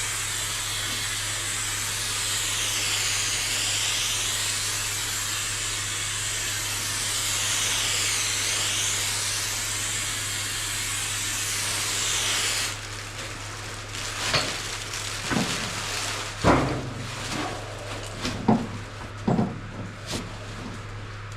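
Aerosol can of Spray Max 2K epoxy primer spraying in a steady hiss whose tone sweeps up and down as the can passes back and forth. The spray stops about two thirds of the way through, followed by a few knocks and clicks, over a steady low hum.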